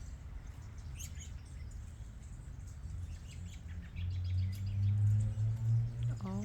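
Small birds chirping faintly and briefly, once about a second in and again a few times about four seconds in. Under them a low steady hum swells for a couple of seconds and is the loudest sound.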